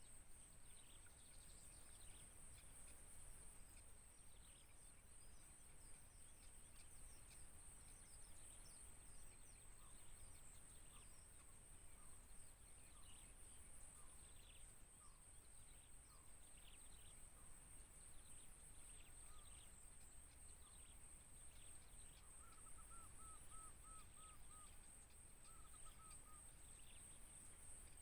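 Faint outdoor natural ambience: a steady high-pitched insect drone with scattered short bird chirps, and two quick runs of short repeated bird notes near the end.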